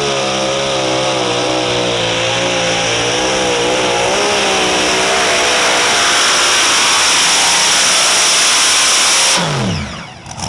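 A competition pulling tractor's engine running flat out on a pull, loud and steady. Near the end it cuts off suddenly, its pitch falling away as it winds down.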